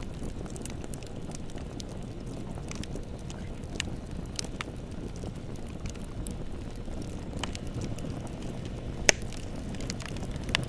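Wood fire burning with a steady low rumble and scattered sharp crackles and pops, the loudest pop a little past nine seconds in.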